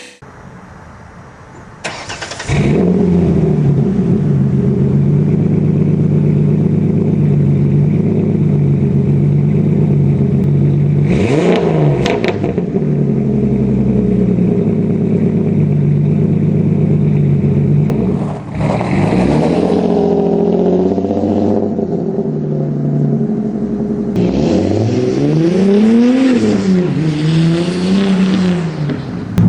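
Ford Mustang 4.0-litre V6 starting about two seconds in, then idling steadily through its exhaust. It is blipped briefly twice, then revved up and down several times near the end.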